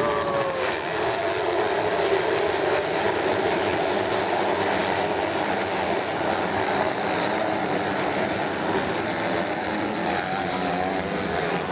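Several motocross bikes racing, their engines running and revving over one another in a dense, steady din.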